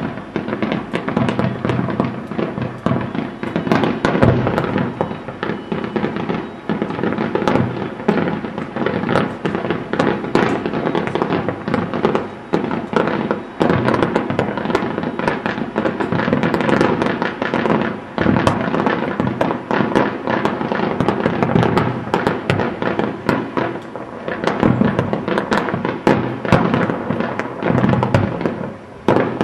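Aerial fireworks display: a dense, unbroken run of bangs, pops and crackles overlapping one another.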